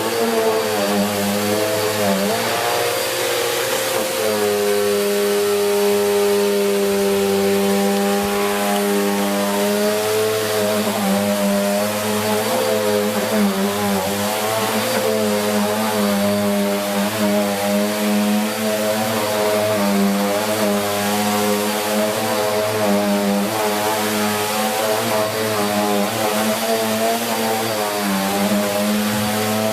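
Bissell Cleanview Plus 1900 W bagless upright vacuum cleaner running on carpet. Its motor hum wavers in pitch and dips now and then as the brush head drags on the pile.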